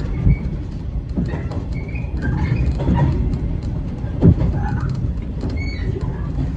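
A 115-series electric train running on the rails: a steady low rumble of the wheels with sharp knocks over rail joints and points, the loudest a little over four seconds in. Scattered short high chirps sound over the rumble.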